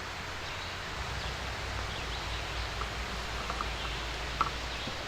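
Woodland trail ambience: a steady outdoor hiss with a low rumble, light rustling and a few faint short ticks or chirps.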